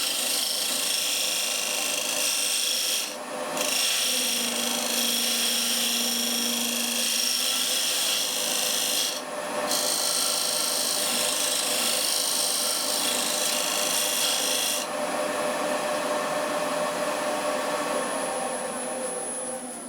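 Square carbide turning tool cutting into a spinning wood piece on a lathe: a steady hiss of shaving wood, broken twice by short pauses. The cutting eases off after about fifteen seconds, leaving the lathe running.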